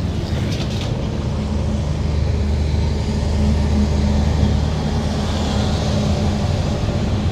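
Motor vehicle engine running steadily on the move, with road noise that swells a little between about three and six seconds in.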